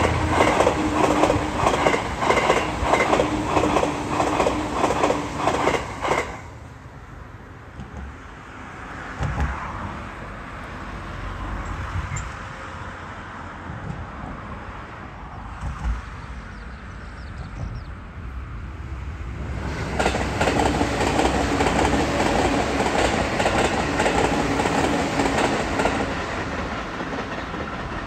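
JR East E657 series electric express trains passing on the track below, wheels clacking rhythmically over the rails with a steady hum. The first train's sound cuts off abruptly about six seconds in, leaving a quieter stretch. A second E657 train comes in about two-thirds of the way through, clacking and humming again.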